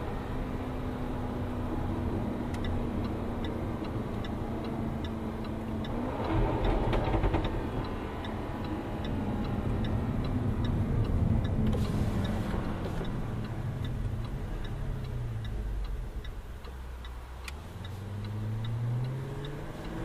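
Jaguar F-Type R's supercharged 5.0-litre V8 driving along. It revs up about six seconds in, eases off with a falling note, then climbs again near the end. Through much of this the turn-signal indicator ticks steadily, about twice a second.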